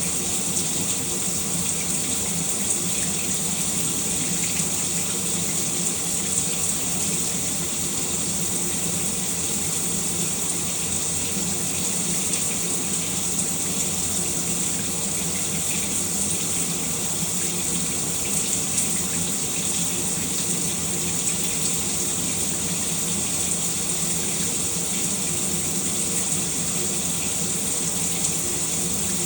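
Shower running: a steady, unbroken spray of water falling, hissing and even, with no change in flow.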